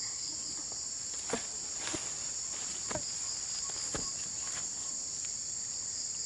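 Steady, high-pitched chorus of crickets and other insects, with a few short clicks or rustles scattered through it.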